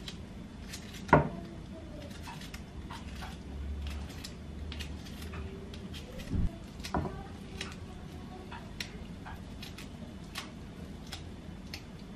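Kitchen handling sounds: scattered light clicks and knocks of dishes, utensils and cupboards. There is a sharp knock about a second in, and two more thuds around six and seven seconds in.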